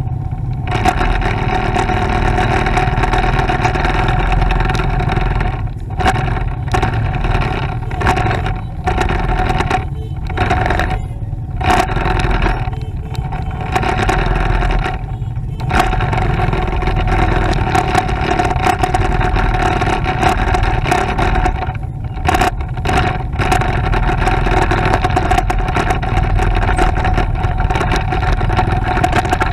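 Motorcycle engine running steadily while riding, over a constant low rumble. The engine note briefly drops away several times partway through.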